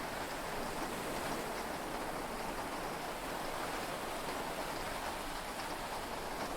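Heavy rain falling steadily on a yacht, heard from inside the cabin as an even hiss with no distinct drops or thunder.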